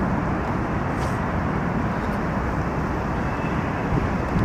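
Steady vehicle noise, a constant rumble with no distinct knocks or tones.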